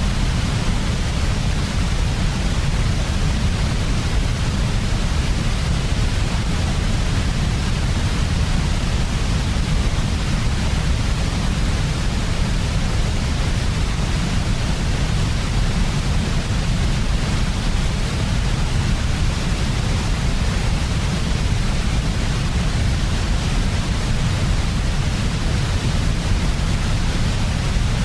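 Continuous, unchanging white noise, heaviest in the low end with a softer hiss above it, for lulling a baby to sleep.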